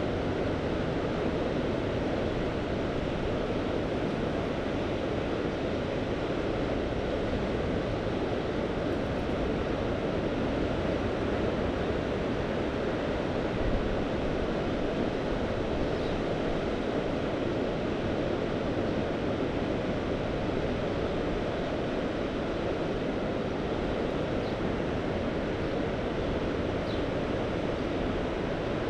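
Mediterranean sea surf with wind, a steady, even rush without distinct breaking waves.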